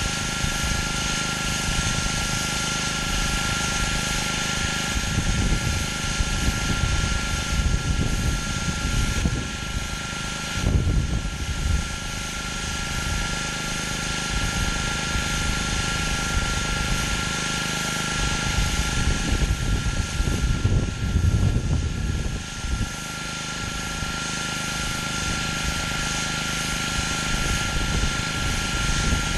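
Gas-engine pressure washer running steadily, its high-pressure water spray hissing on concrete, with a steady high whine. Low rumbling swells in several times.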